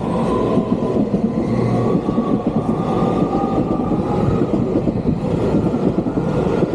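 Passenger train running along the rails: a steady rumble with a faint held whine.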